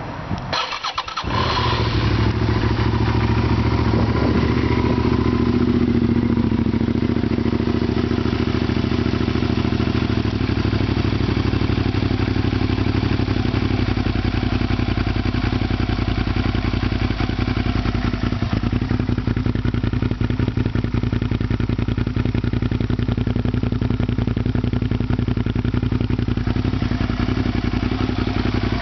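Suzuki SV650S's 645 cc V-twin engine starting about a second and a half in, then idling steadily through an aftermarket chrome slip-on muffler.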